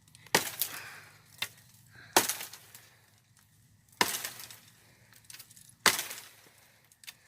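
A series of four sharp cracking strikes, evenly spaced about two seconds apart, each dying away quickly, with a few lighter clicks between them.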